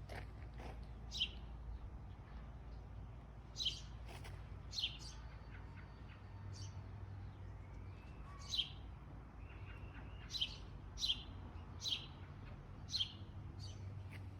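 A songbird giving short, sharp, high chirps, about ten of them at uneven intervals of one to two seconds, over a faint steady low hum.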